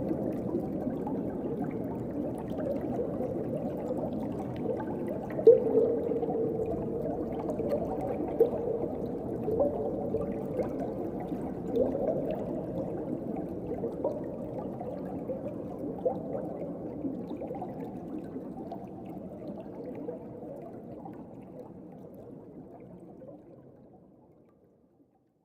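Muffled underwater ambience: a dull wash of moving water with short gurgling, bubbling notes, fading out near the end.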